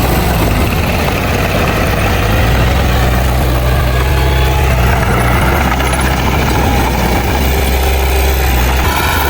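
Heavy diesel engine of an earthmoving machine, a bulldozer or dump truck, running steadily with a deep, even hum.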